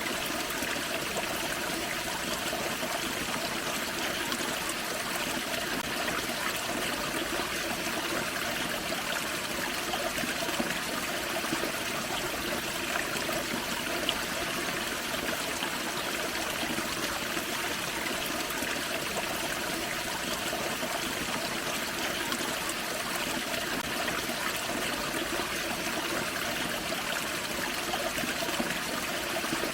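Small forest creek waterfall, water splashing and trickling steadily over rocks.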